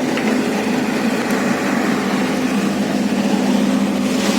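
Excavator's diesel engine running steadily, at an even pitch with no revving.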